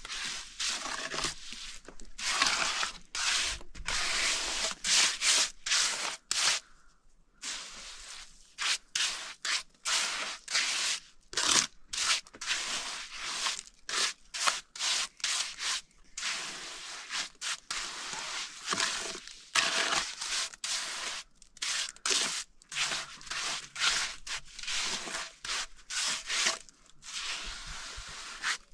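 Rough scraping or rubbing strokes repeated irregularly, several a second, with short pauses between runs.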